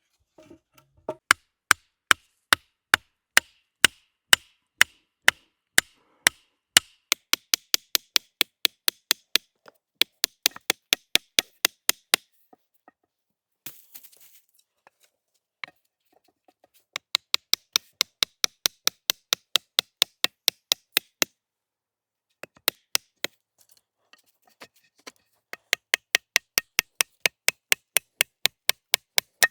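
Tomahawk chopping wood in runs of quick, sharp strikes, about two a second at first and then faster, three to four a second. There are two pauses, and a short rustle falls in the first one.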